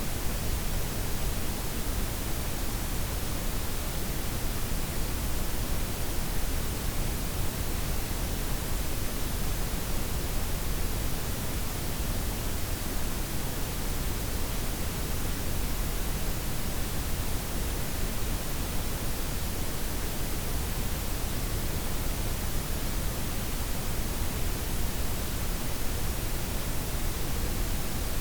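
Steady synthetic blend of white, pink and brown noise, an even hiss with a deep low rumble and no changes or events.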